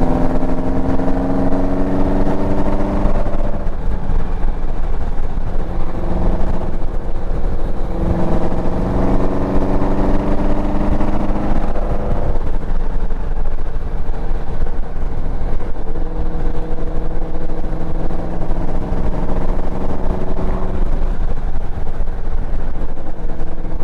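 Motorcycle engine running under way with road and wind rush, its pitch climbing slowly three times and dropping back between.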